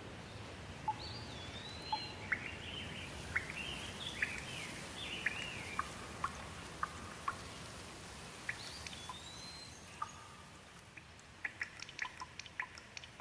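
Rain falling with a steady hiss that slowly fades, while birds call over it with whistled, sweeping calls and short chirps through the first half and once more around the middle. Near the end, quick sharp ticks of dripping water take over.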